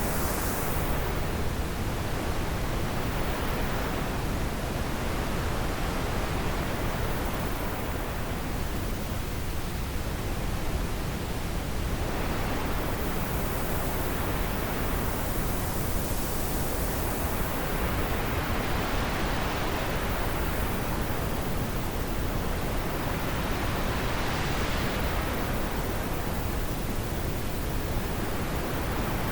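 Wind blowing as a steady hiss that swells and eases in slow gusts every several seconds.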